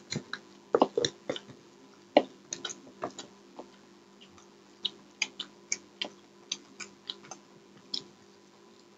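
Close-miked eating sounds: irregular mouth clicks, smacks and chewing as a breaded chicken cutlet and a chicken lollipop are eaten. The clicks come thick in the first three seconds, then more spaced out, over a faint steady hum.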